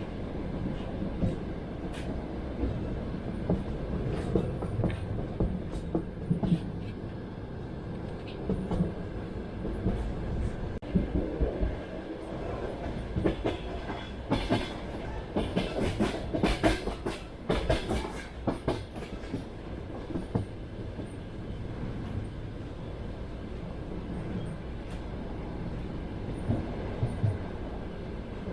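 Train wheels running on rails: a steady rumble with the clickety-clack of wheels over rail joints. A busier run of sharp clacks comes about halfway through.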